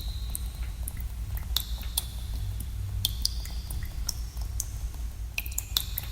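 Water drops falling at irregular intervals in a cave, each a sharp plink with a short ringing tone, over a steady low rumble.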